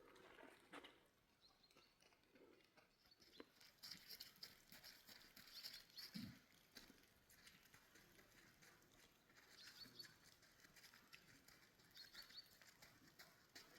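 Near silence: faint scattered clicks and soft rustling, with one soft low thump about six seconds in.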